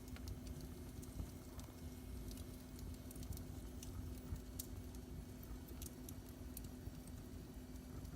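Wood fire burning in a fireplace, with irregular small crackles and pops over a low rumble and a steady low hum.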